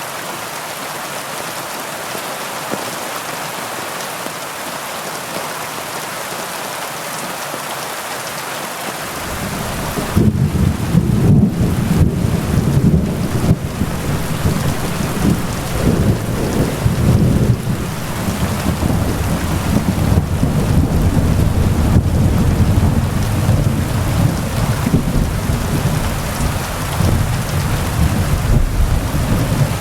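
Heavy rain falling steadily, with a long, low roll of thunder that comes in about a third of the way through and rumbles on almost to the end.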